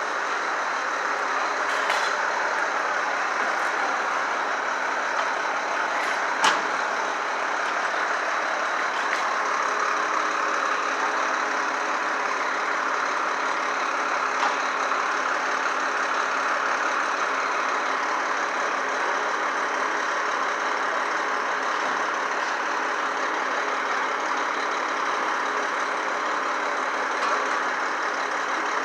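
Heavy truck engine idling steadily, with two short, sharp knocks in the first seven seconds.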